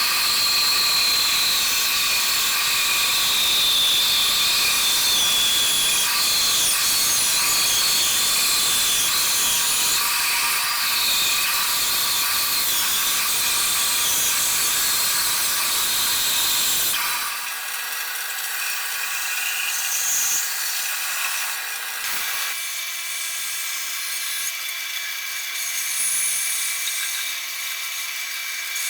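A power tool runs steadily with a hissing, whining sound. The sound changes abruptly about 17 seconds in and again about 22 seconds in, becoming quieter with a few steady tones.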